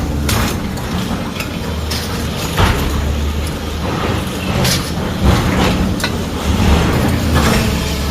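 Heavy diesel machinery running with a steady low drone, with a scatter of sharp knocks and clatters from the demolition work.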